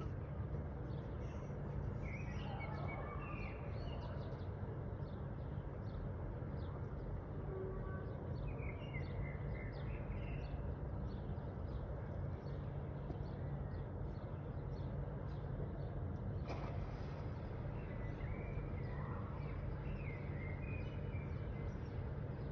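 Small birds chirping in short scattered bursts, a few seconds in, around the middle and again near the end, over a steady low background rumble.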